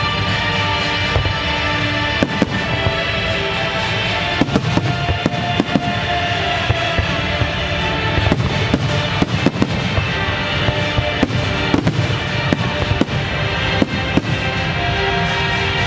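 A fireworks display with shells bursting in a rapid, irregular string of bangs and crackles throughout, while music plays underneath.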